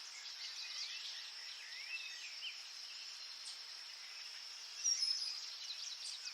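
Faint birdsong: scattered short, quick chirps and pitch glides over a steady high hiss, a little busier about five seconds in.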